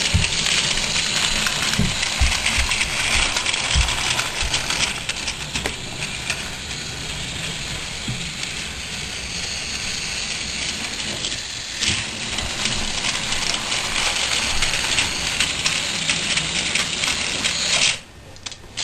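Steady rattling and whirring of toy trains being played with on a track, with a few low knocks, cutting off sharply near the end.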